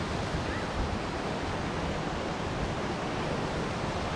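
Steady rushing noise, like wind buffeting the microphone.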